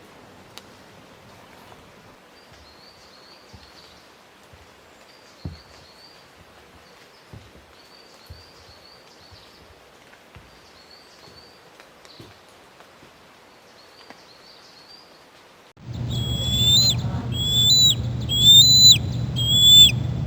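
Faint outdoor ambience with short, high bird chirps repeating every second or two. About sixteen seconds in it cuts abruptly to much louder, repeated high whistled bird calls, each note hooking up in pitch, over a low hum.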